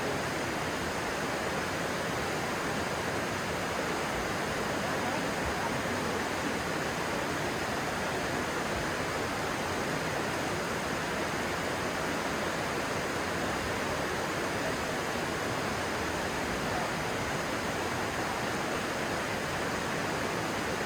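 A stream flowing fast, a steady, even rush of water.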